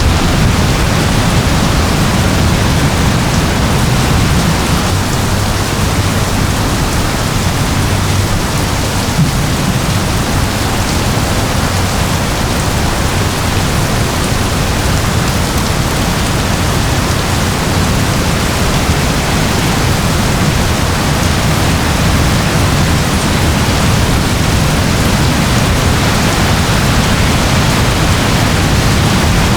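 Steady rain falling: an even, unbroken hiss of rain with a heavier low rumble underneath.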